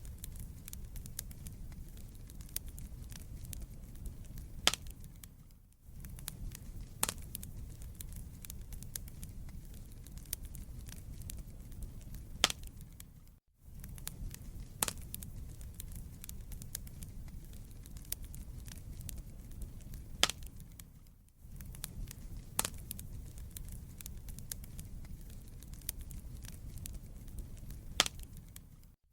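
Wood fire burning in a fireplace: a steady low rumble with scattered crackles and a few sharp pops, dropping out briefly about every eight seconds.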